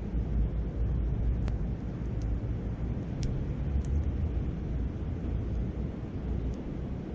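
Wood campfire crackling, with about five sharp pops spread through, over a steady low rumble of wind on the microphone and the babble of a river.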